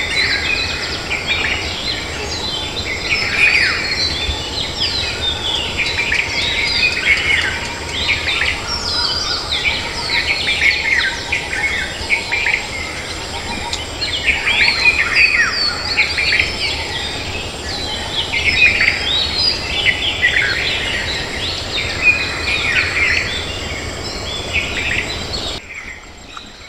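A morning chorus of many different birds chirping and whistling over one another, dense and unbroken, dropping away about a second before the end.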